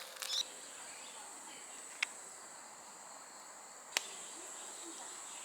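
Crickets chirring in a steady high trill, with a few sharp clicks: one near the start, one about two seconds in and one about four seconds in.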